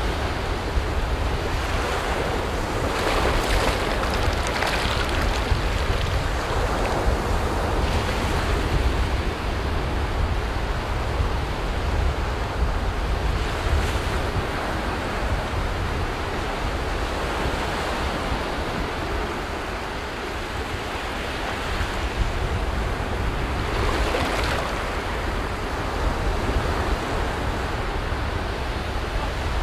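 Sea waves breaking and washing up a beach, a steady surf with swells of louder wash every several seconds, over a deep rumble of wind on the microphone.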